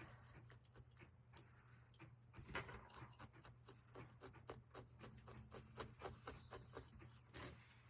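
Near silence with faint, irregular light scratching and rubbing as felt is handled and marked at a work table, over a steady low electrical hum.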